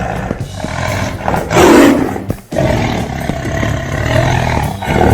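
Animal roar sound effects: a loud roar about one and a half seconds in, then after a brief break a longer, drawn-out roar.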